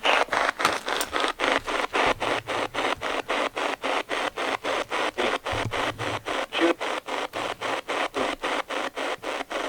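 Spirit box radio sweeping through stations: a rapid, even train of static bursts, about five a second, as the scan chops from one frequency to the next.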